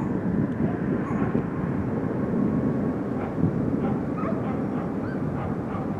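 Airbus A330-300's Rolls-Royce Trent 772 turbofan engines running at high power, a steady low rumble.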